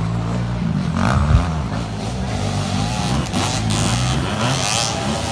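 Several motocross motorcycle engines revving, their pitch rising and falling as the bikes race.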